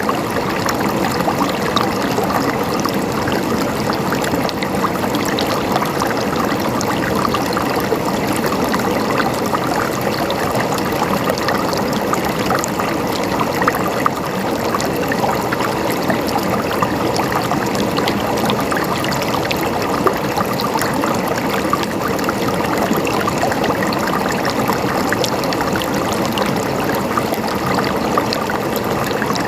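Running water, a small stream or cascade trickling and splashing steadily, with many small droplet splashes.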